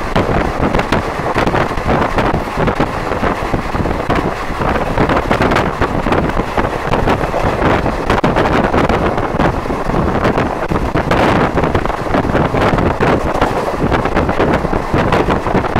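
Wind rushing and buffeting against the microphone at the open window of a moving train, over the train's continuous running noise, loud and steady with constant small irregular gusts.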